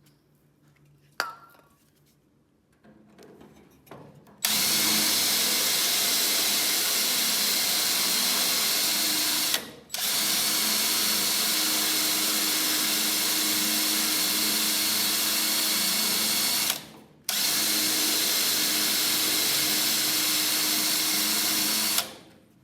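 Electric drill boring alignment holes through a truck's steel door hinge bracket, running steadily in three long runs with two brief stops between them. A single sharp click about a second in.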